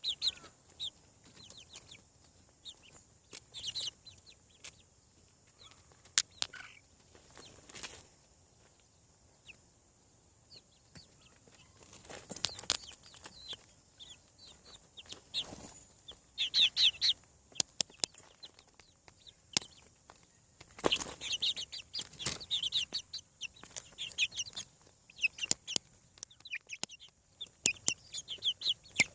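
Young chickens peeping in short, high-pitched calls, with scattered sharp clicks and rustles; the calls come in clusters and are busiest in the second half.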